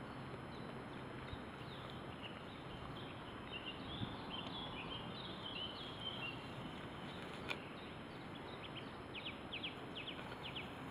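Birds chirping over a steady outdoor hiss, ending in a run of quick high ticking notes, with one sharp click about seven and a half seconds in.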